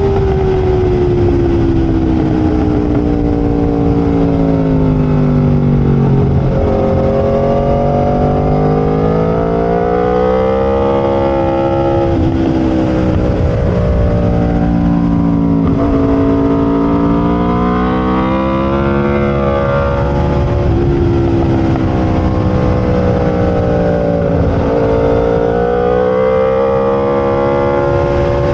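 Aprilia RSV4 V4 sportbike engine at race pace. Its pitch falls for the first several seconds as the bike slows, then climbs hard in repeated runs, each cut off by a sudden drop at a gear change, before easing and rising again near the end. A steady rush of wind runs underneath.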